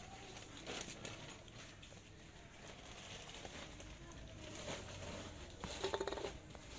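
Faint scattered clicks and light knocks of metal parts and hand tools being handled, with a brief cluster of sharp, ringing metallic taps about six seconds in.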